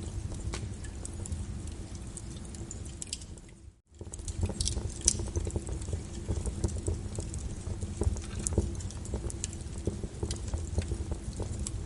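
Wood fire crackling, with irregular sharp pops and snaps over a low, steady rumble of flames. The sound dips almost to silence for a moment about four seconds in, then returns.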